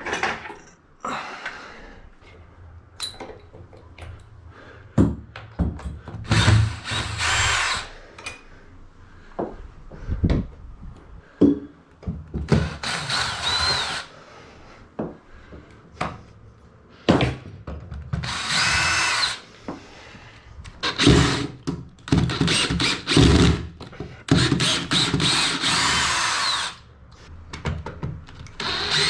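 Power drill running in short runs of one to two seconds, its motor pitch rising and falling as it drives out screws to take apart a wooden bed frame, with knocks between the runs.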